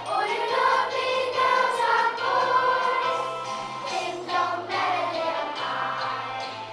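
Children's choir singing a song in a school nativity, with instrumental backing carrying a stepping bass line underneath.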